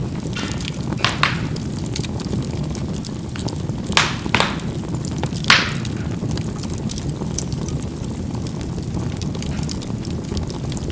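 Charcoal burning in a fireplace: a steady low rush of flame with sharp crackling pops, two about a second in and a louder group between four and five and a half seconds.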